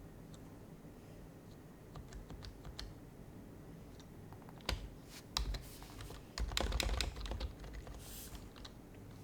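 Typing on an HHKB Type-S keyboard with Topre switches: a few light, scattered keystrokes, then heavier strokes and a quick dense run of keys a little past halfway. A brief soft swish follows near the end.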